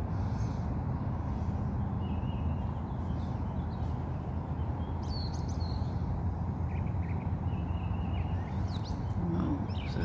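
Steady low outdoor background rumble with a few faint, short bird chirps scattered through it, a little more of them near the end.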